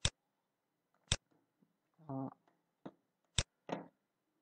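Computer mouse clicking three times, once at the start, once about a second in and once just past three seconds, as the pointer works through a slide program's pen menu. A short hum of a voice comes around two seconds in.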